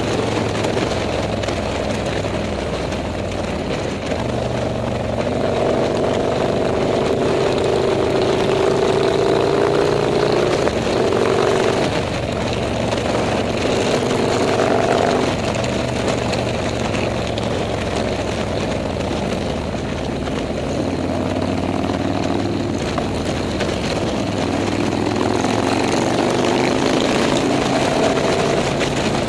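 Motorcycle engines running, their pitch rising and falling as they change speed.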